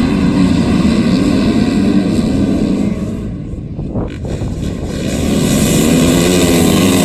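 Motocross bike engines running on the track, their pitch wavering as they rev. The sound eases about three seconds in and builds again about five seconds in.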